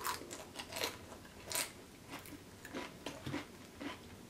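Close-miked chewing of a queso-dipped tortilla chip: a few sharp crunches in the first second and a half, then softer, wet chewing about twice a second.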